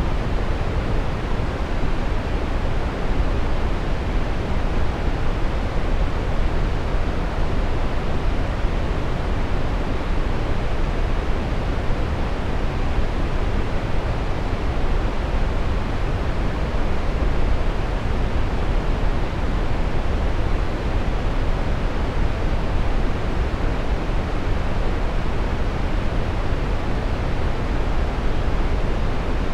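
Steady brown noise: an even, deep rushing hiss, strongest in the bass and falling off toward the treble, with no changes or events.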